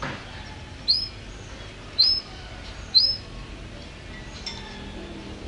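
A songbird gives three loud, short, high calls about a second apart, each sweeping up and then levelling off, with fainter bird calls around them.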